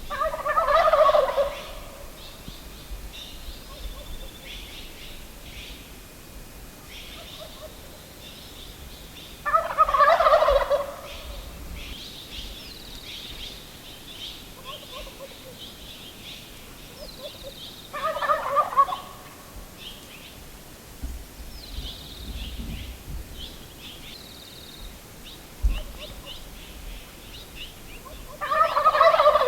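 A Gould's wild turkey gobbler gobbling four times, about every nine seconds, each gobble a loud rattling call lasting a second or two. Small birds chirp faintly between the gobbles.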